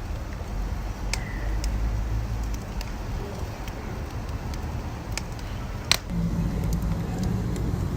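Wood fire crackling, with scattered sharp pops over a low steady rumble; the loudest pop comes about six seconds in.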